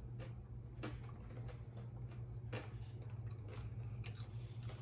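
Someone chewing a crisp air-fried corn tortilla chip: scattered quiet crunches at irregular intervals over a steady low hum.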